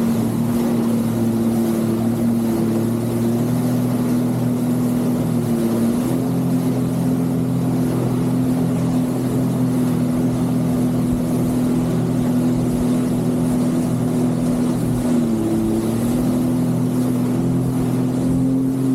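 Jet ski engine running at a steady cruising speed, its pitch stepping up slightly about six seconds in and dipping briefly near fifteen seconds before picking back up.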